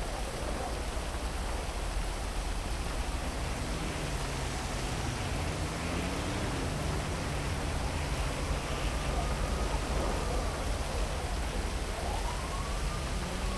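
Heavy rain falling steadily over a city. A low hum comes in a few seconds in, and from a little past halfway a siren wails, rising and falling in pitch.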